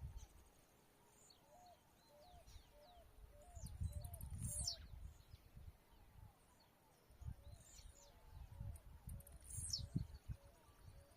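Blue-black grassquit (tiziu) giving its short, high, down-sweeping song several times, most clearly about four and ten seconds in. Under it run wind rumble and an even series of low repeated notes.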